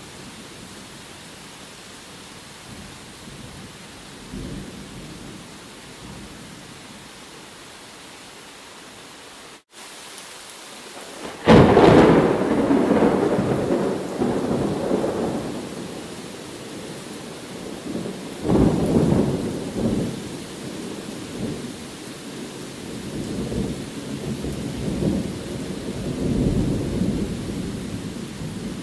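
Steady rain with thunder. A loud clap comes about 11 seconds in and rumbles away over several seconds, a second peal follows near 18 seconds, and softer rolling rumbles come near the end.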